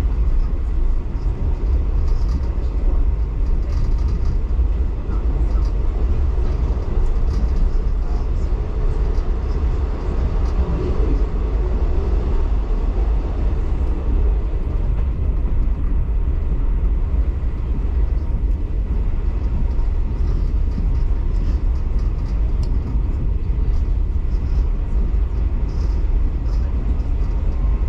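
Steady rumble of a passenger train running along the line, heard from aboard the carriage, with deep running noise from wheels on track.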